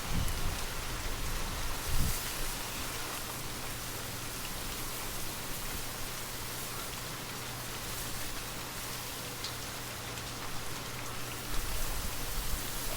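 Light rain falling steadily as an even hiss, with scattered faint drop ticks. A low rumble of wind builds near the end.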